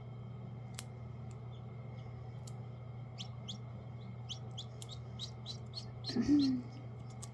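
Newly hatched silkie chicks peeping: short, high-pitched falling peeps, a few a second, over a steady low hum.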